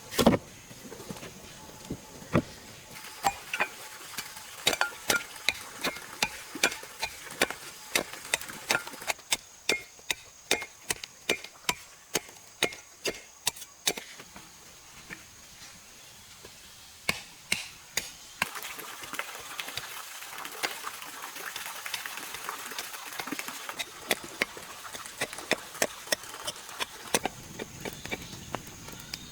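Repeated sharp chopping strikes, about two to three a second, in two runs with a pause of a few seconds between them. A single louder knock comes right at the start.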